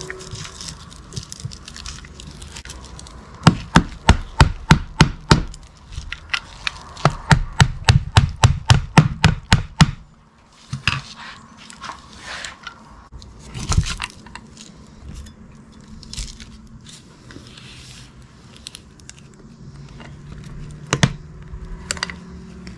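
Repeated sharp knocks from hand work on a starter motor, in two quick runs of about four or five a second, then scattered clicks and the clatter of parts being handled, with a louder knock now and then.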